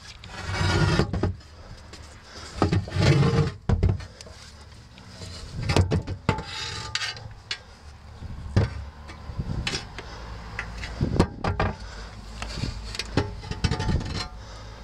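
Wooden bell-frame beams being handled and rubbed at close range: irregular bursts of scraping and several sharp knocks, with no bell ringing.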